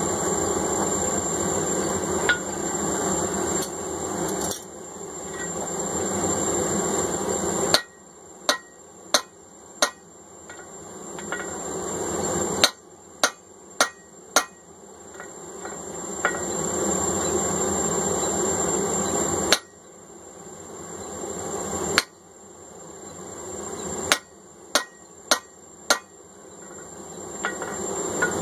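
Hammer blows on a punch driving an eye hole through hot steel bar stock, in quick runs of about four strikes with pauses between. The steady roar of the forge fills the gaps.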